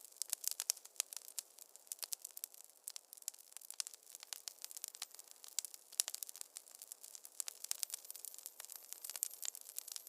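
Wood fire crackling in a fireplace: dense, irregular sharp pops and snaps over a faint hiss, with no low rumble.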